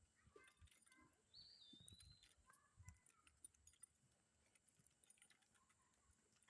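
Faint birdsong: a few short whistled calls and one wavering high whistle about a second and a half in, with scattered soft low thumps.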